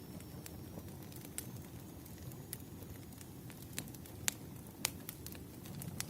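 Wood fire crackling, with a steady low rumble of flames and irregular sharp pops and snaps of burning firewood; the loudest pops come a little past the middle.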